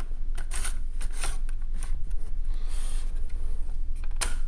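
Sharp plastic-and-metal clicks and a brief scrape as a Crucial MX500 SATA SSD in its drive caddy is slid into a ThinkPad T430's drive bay, over a steady low hum.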